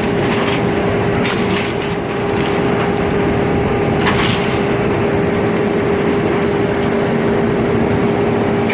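Demolition excavator working on a wooden building: its engine runs with a steady hum while timber cracks and splinters. Two sharper cracks stand out, about a second and a half in and about four seconds in.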